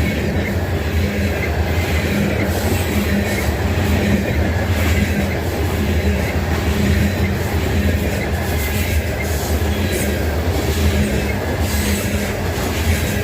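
Loaded grain train's cars rolling past close by: a steady heavy rumble, with wheels clacking over rail joints at uneven intervals.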